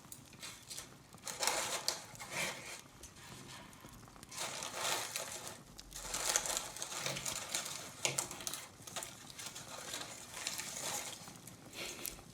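Paper decorations crinkling and rustling as they are handled, in several irregular bouts with small clicks between.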